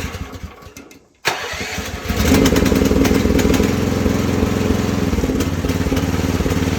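Small carbureted gasoline engine of a Rippa mini excavator being started on choke: the first try fades out within a second, then a second try about a second in catches and settles into a steady run. It is hard-starting and runs imperfectly, which the owner puts down to air getting into the fuel line from the tank.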